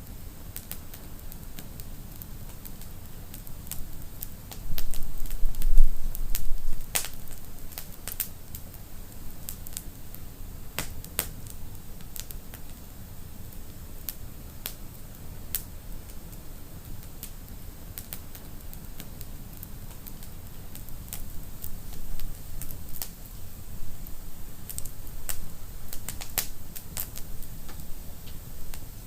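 Wood fire crackling, with irregular sharp pops over a steady low rumble and hiss. A louder low rumble swells briefly about five seconds in.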